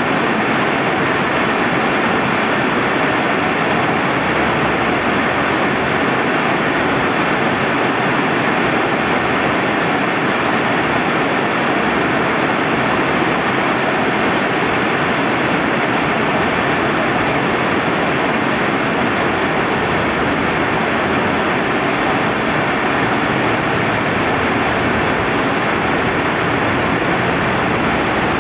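Steady rain falling beside a flowing river: a loud, even, unbroken hiss with no separate drops or changes.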